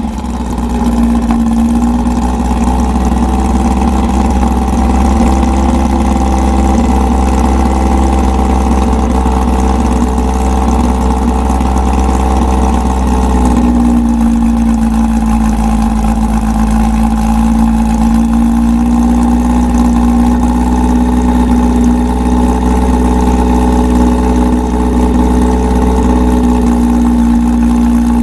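Engine of a modified Volkswagen Beetle idling steadily, its note shifting slightly about 13 seconds in.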